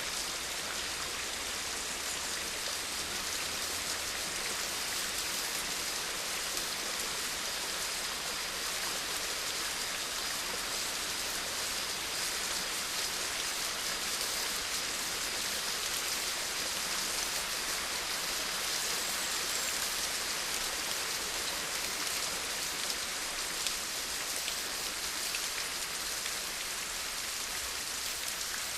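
Steady rain falling, with many fine drops pattering on a surface; even and unbroken.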